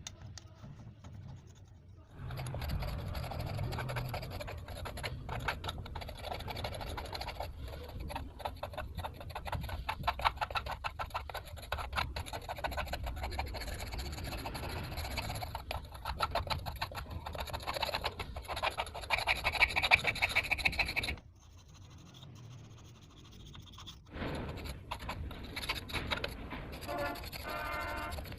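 A brush scrubbing a car engine part in rapid back-and-forth strokes, with a quiet pause about three quarters of the way through before the scrubbing resumes.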